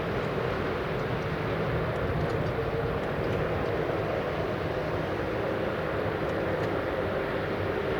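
A train running steadily: an even rumble with a steady hum over it.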